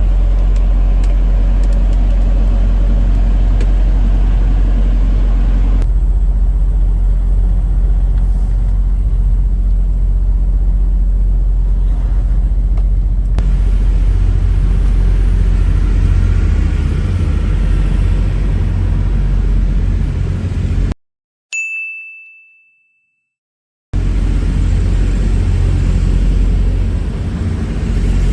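Steady low rumble of a semi truck driving down the road. About 21 seconds in, it cuts to dead silence, and a single clear ding rings out and fades over a second or so before the rumble returns.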